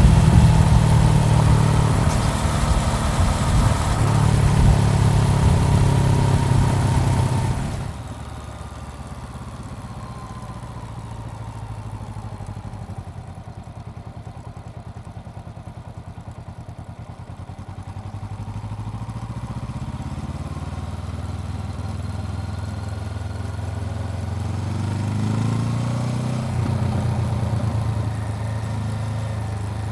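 Honda CBR400R's parallel-twin engine running under way, with wind hiss. About a quarter of the way in, the throttle closes and the sound drops suddenly to a low, quiet engine note. Later the engine note slowly climbs again as the bike speeds up, with a brief dip near the end.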